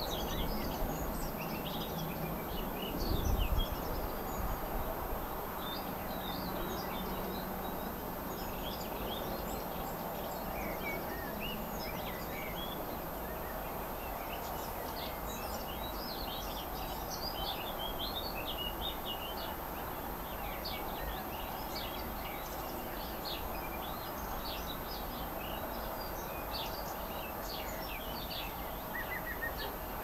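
Several small birds chirping and singing in short high calls and trills, busiest in the second half, over a steady background hiss of outdoor noise. A brief low rumble comes about three seconds in.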